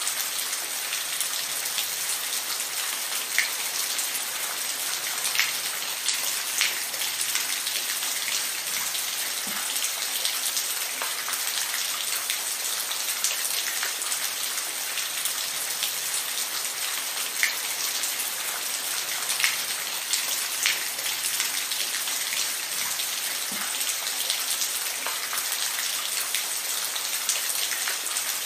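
Steady rainfall: a dense hiss of rain with individual drops ticking sharply on a surface, scattered every second or so.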